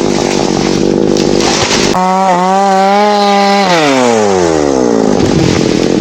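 Chainsaw engine running, then abruptly at high revs about two seconds in, held steady for a second and a half, then the revs fall away as the throttle is released, winding down before running roughly again near the end.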